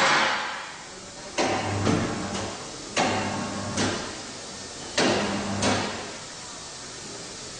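FLYING BL543 heavy-duty tire changer being worked by its controls in short bursts: three separate runs of about a second each of rushing, grinding noise over a low motor hum, with the tail of another at the start.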